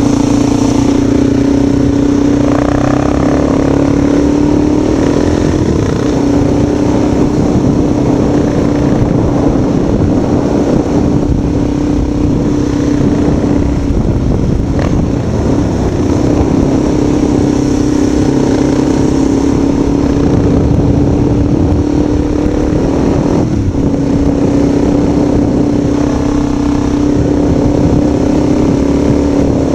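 A vehicle engine running at a steady pitch, with heavy rumbling wind and road noise. The tone falters briefly a few times, around 6 and 23 seconds in.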